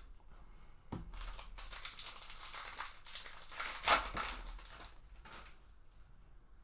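Trading cards being handled and slid through the hands, a dry papery rustling with small clicks, loudest in a sharp rustle just before four seconds in, fading out shortly after five seconds.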